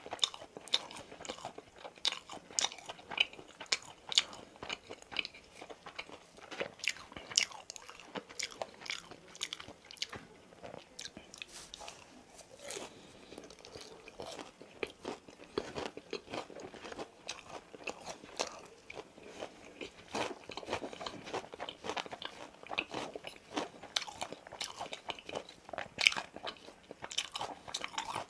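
Close-miked crunching and chewing of boneless fried chicken: irregular crisp crunches, several a second at times, between softer chewing.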